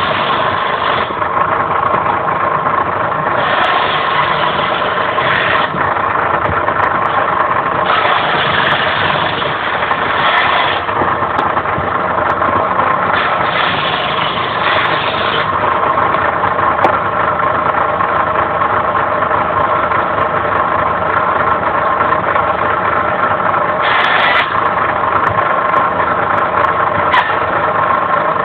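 Homemade circular saw driven by the electric motor from an old water pump, running steadily with a constant whine from the spinning blade. Several times the blade cuts into firewood, adding a harsher, hissing cutting sound for one to three seconds each.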